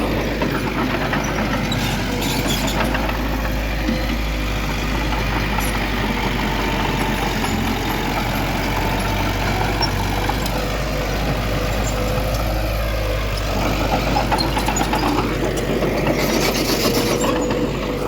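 Diesel engine of heavy earthmoving machinery running steadily, with a held engine tone and a few light clanks.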